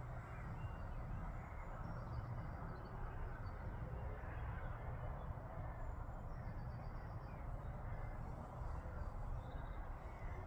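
Steady low outdoor background noise, with a few faint, high bird calls scattered through it.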